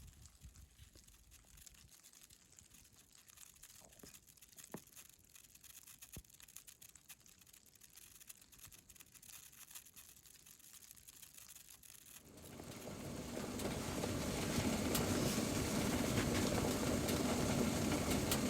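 Very quiet with a few faint clicks, then about twelve seconds in the steady bubbling of a pot of water at a hard boil comes up and holds.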